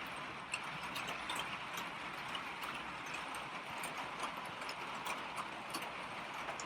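Steady rain falling, with many single drops tapping at irregular moments.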